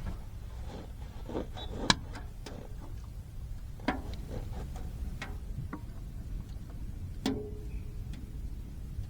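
Scattered light clicks and knocks at an irregular pace over a low steady rumble, with one sharper knock near the end that rings briefly like metal.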